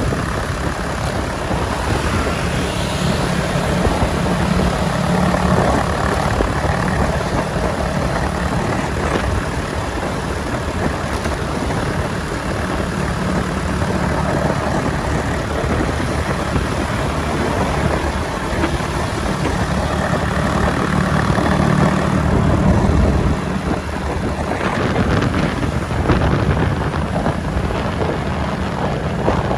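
Motorbike engine running during a ride through city traffic, a steady mix of engine and road noise that rises and falls over several seconds.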